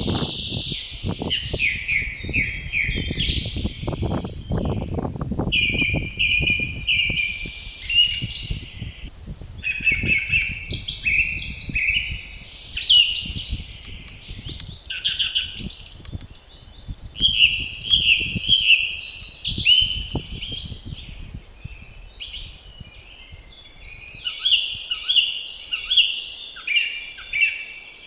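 Several songbirds singing at once in a spring chorus, with short repeated phrases and trills overlapping throughout. Gusts of wind rumble underneath, strongest in the first third and easing later.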